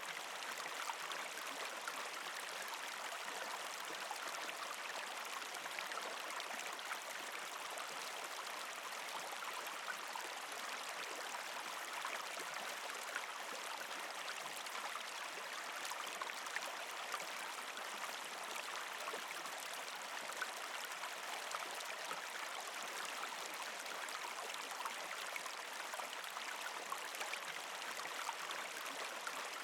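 Partially frozen creek flowing and trickling over rocks, a steady gurgling wash with many small splashes throughout.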